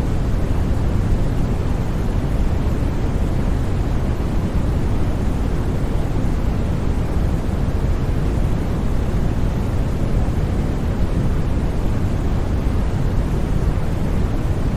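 Steady, unchanging electronically generated noise, heavier in the low end than the top, so it sounds like a deep even rush rather than a bright hiss.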